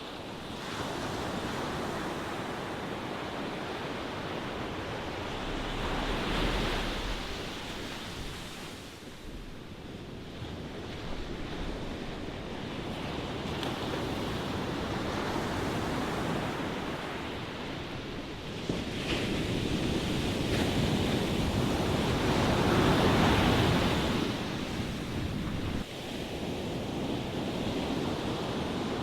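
Ocean waves: a steady rushing wash of surf that swells into a louder break about six seconds in and again, loudest, about twenty-three seconds in.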